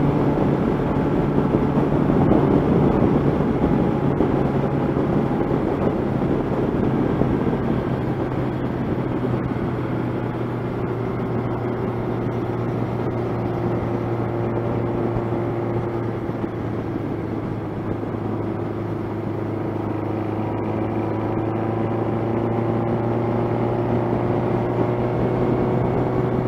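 1985 Honda CB700SC Nighthawk's inline-four engine running steadily at cruising speed, with wind noise from the ride underneath. The engine note eases a little midway and climbs gently near the end.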